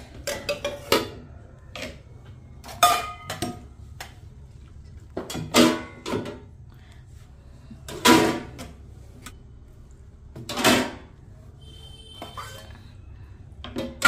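Dishes and utensils clattering and clinking as they are set one at a time into a tub, about six separate knocks a couple of seconds apart, some ringing briefly.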